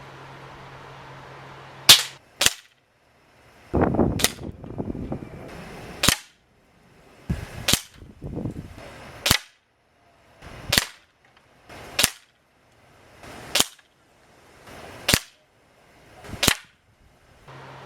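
Daisy 753 Avanti single-pump pneumatic target air rifle firing a series of about eleven sharp cracks, a second or two apart, with rustling handling noise between the first few shots. The rifle is shooting properly here after being oiled and reassembled.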